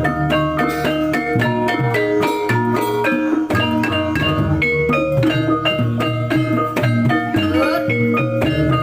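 Javanese gamelan music for a kuda lumping dance: struck metallophones playing a quick, steady run of notes over drumming.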